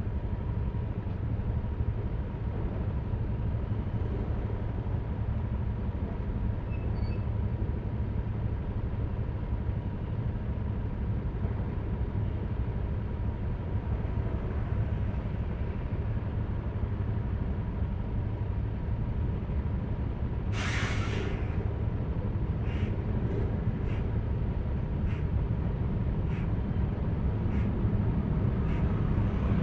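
Yamaha Aerox V3 scooter's 155 cc single-cylinder engine running steadily with road noise under way. About two-thirds of the way through comes a loud short hiss, followed by a string of faint ticks.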